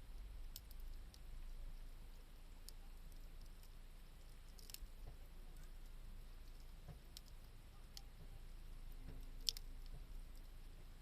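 Wood fire crackling quietly, with sparse sharp pops and ticks over a faint low rumble; the loudest pop comes about nine and a half seconds in.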